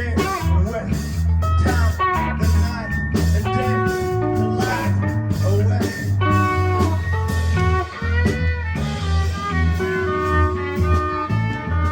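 Live rock band playing an instrumental passage: electric guitar lines with bent notes over bass and drums.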